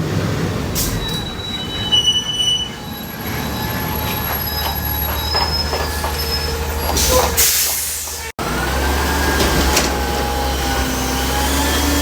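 A heavy vehicle passes with a steady low rumble and high metallic squeals a couple of seconds in. The sound breaks off for an instant about eight seconds in, then returns as a rumble with a wavering whine.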